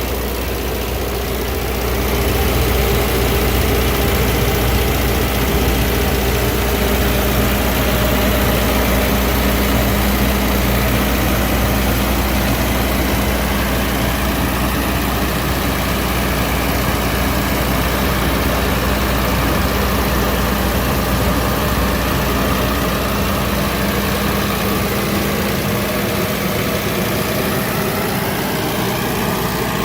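Multiquip MQ70 56 kW portable diesel generator running steadily, with an even low engine hum; it gets slightly louder about two seconds in.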